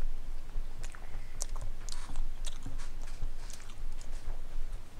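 A person chewing a mouthful of food close to a headset microphone, with irregular sharp mouth clicks and soft low thuds.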